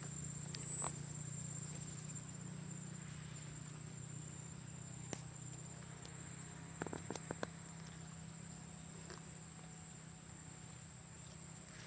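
Insects trilling steadily in one high, unbroken tone over a low steady hum, with a few faint clicks about seven seconds in.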